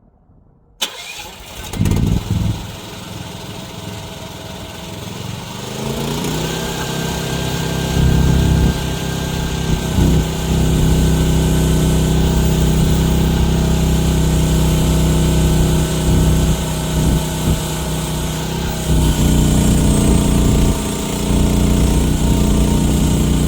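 Loud gasoline engine of a one-ton mini excavator starting up about a second in, then revving up to a steady high run around six to eight seconds in, with brief dips in level as the machine works.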